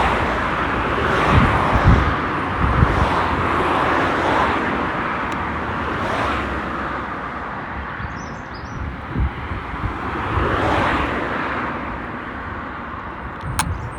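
Outdoor ambience of wind buffeting the microphone, with low rumbles under a steady rush that swells and fades several times. There is a brief click near the end.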